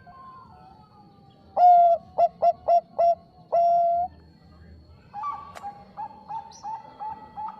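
Bangkok-strain zebra dove (perkutut) cooing: a loud phrase of a long note, four quick short notes and a long closing note, then a quieter, faster run of short repeated coos at a slightly higher pitch.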